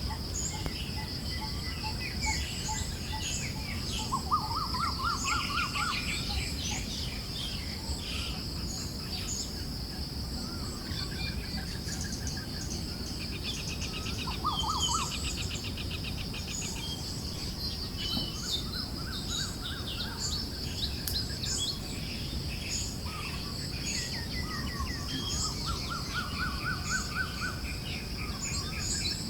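Forest birds chirping and trilling, several at once, with a rising trill phrase repeating every few seconds. Underneath run a steady high hiss and a soft, even wind noise.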